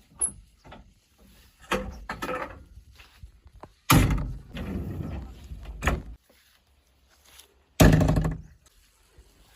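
A series of heavy thuds and bangs. The two loudest come about four seconds in and just before eight seconds in, and each dies away over a second or two.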